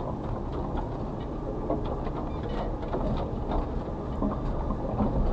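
Suzuki Carry kei truck's 660cc three-cylinder engine and drivetrain running as it is driven off-road, heard from inside the cab as a steady low rumble. Frequent small knocks and rattles are scattered over it.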